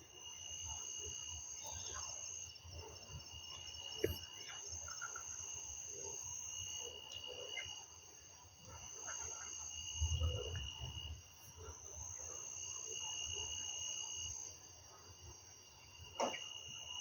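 Insects singing in steady, high-pitched bouts of a few seconds each, overlapping. Two sharp clicks come about 4 and 16 seconds in, and a brief low rumble comes about ten seconds in.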